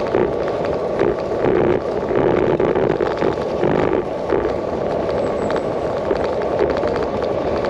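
Bicycle rattling and jolting over a bumpy, rough-surfaced track, picked up through a handlebar-mounted action camera: a steady tyre rumble with many small knocks and rattles.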